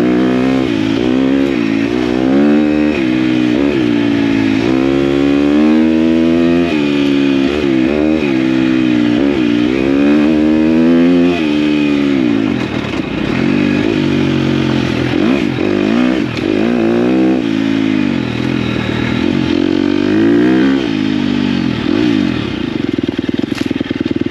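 Dirt bike engine being ridden, its pitch rising and falling again and again as the throttle is worked. In the second half it settles to a steadier, lower note.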